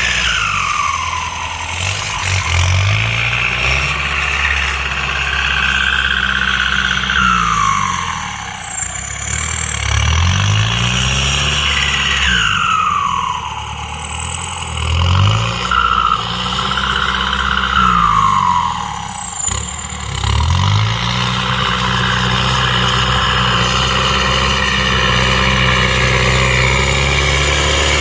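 ZT 155 tractor's diesel engine running, revved up and eased back about five times, then settling to a steady run for the last quarter.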